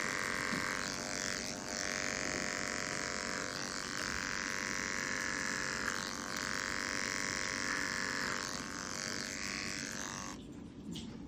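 Electric animal hair clippers running steadily, clipping the dog's fur to prepare the catheter site; they switch off suddenly about ten seconds in.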